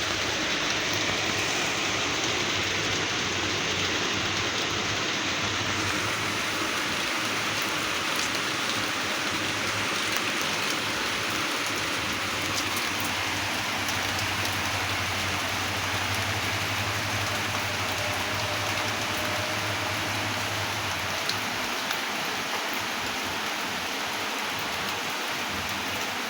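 Steady rain falling, an even hiss of many drops. A faint low hum sits underneath and stops about three-quarters of the way through.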